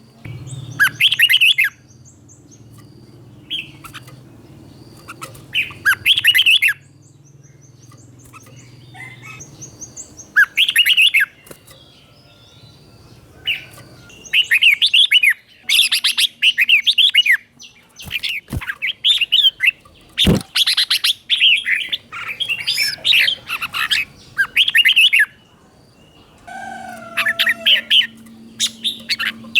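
Red-whiskered bulbul singing: short, bright whistled phrases in bursts separated by pauses, running into a denser string of phrases in the second half.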